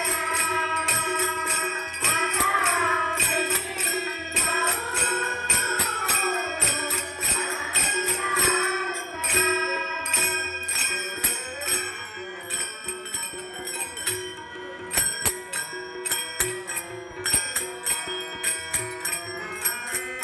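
Women's bhajan group singing a devotional song, accompanied by fast, rhythmic jingling of hand cymbals over a steady held drone tone. The voices fall away about halfway through, leaving the jingling rhythm and the drone.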